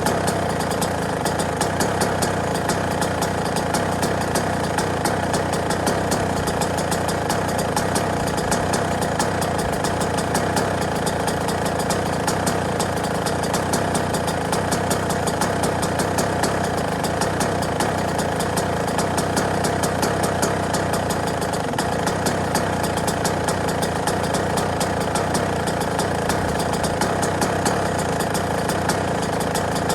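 Yamaha YZ125 two-stroke single-cylinder engine idling steadily, with a rapid, even train of firing pulses.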